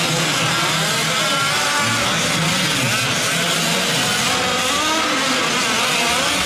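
Several 1/5-scale gas RC trucks' small two-stroke engines racing together, each revving up and down so their pitches cross over one another.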